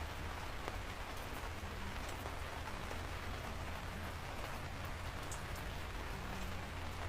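Steady rain falling: a dense, even hiss with scattered individual drops ticking, over a constant low rumble.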